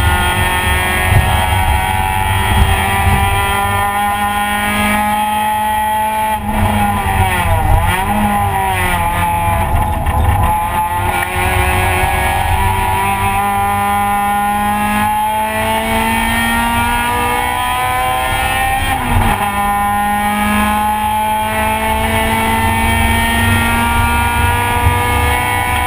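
Race car engine heard from inside the stripped cabin, running hard around a track over loud road rumble. Its pitch climbs steadily under acceleration, wavers up and down several times about seven seconds in while braking and downshifting, and drops sharply once about nineteen seconds in on a gear change before climbing again.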